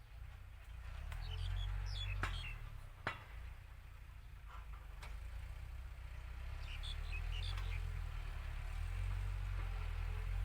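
Iseki NT554 tractor's diesel engine running under load while plowing rough, rutted ground, a low rumble that swells and eases. Two sharp knocks come about two and three seconds in.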